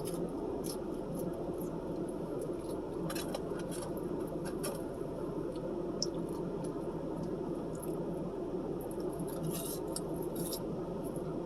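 Eating sounds: quiet chewing and scattered small clicks and crackles from handling food, over a steady low hum.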